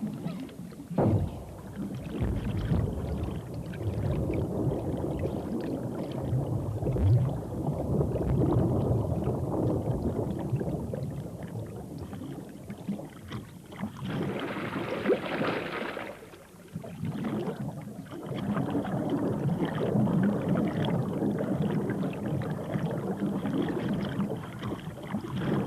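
Water splashing and sloshing in a small garden pond, irregular and churning, with a brief hissier rush of spray about two-thirds of the way through.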